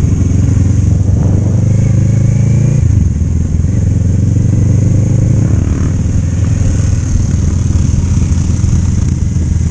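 Motorcycle engine heard while riding. It pulls under acceleration with its pitch climbing, drops sharply at a gear change about three seconds in, climbs again, then settles into a steady cruise.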